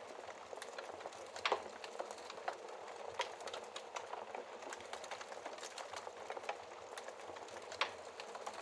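Wood fire burning in a fireplace: a steady soft hiss with irregular sharp crackles and pops, two louder pops about a second and a half in and near the end.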